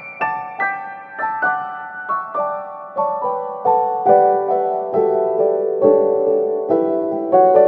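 Background piano music: single notes struck a few at a time each second, in a gentle melody that drifts downward in pitch.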